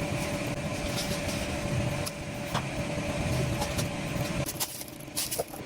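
Factory machinery running: a steady mechanical hum with scattered sharp clicks and knocks, several of them close together near the end.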